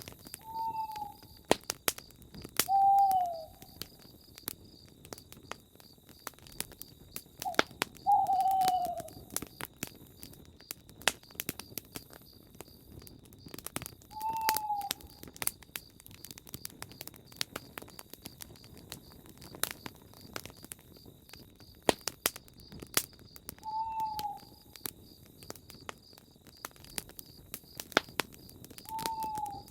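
Campfire crackling with frequent sharp pops, while a bird gives a short falling call about six times, a few seconds apart.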